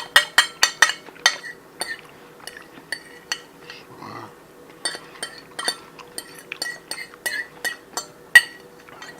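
Metal cutlery clinking and scraping against a plate during a meal: a quick run of clinks at first, then slower, irregular clinks, with one louder clink near the end.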